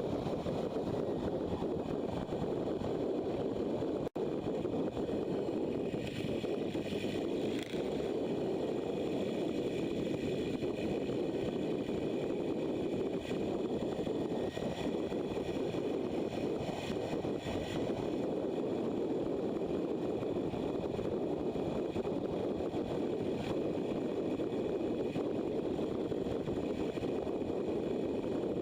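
Steady rush of wind and engine noise from a motorcycle being ridden along a road. There is a brief dropout about four seconds in.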